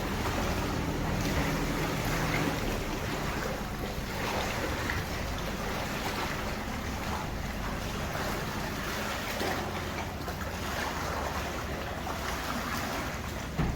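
Small tour boat's engine running steadily under a wash of water along the hull and wind on the microphone, with one short knock near the end.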